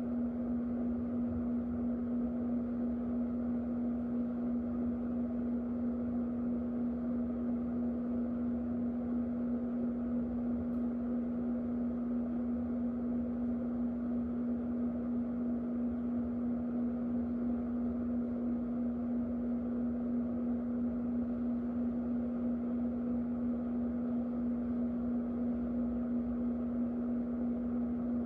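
Electric fan running steadily: a constant hum over an even rush of air.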